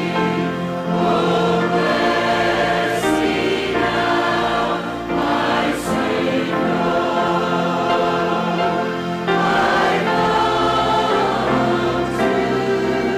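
A choir singing a gospel hymn, sustained chords changing every few seconds.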